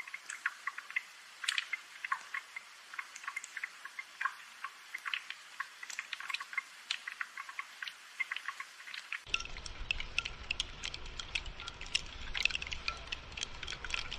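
Rain dripping and pattering in many sharp, irregular drops over a soft hiss. A deeper background rush comes in suddenly about nine seconds in.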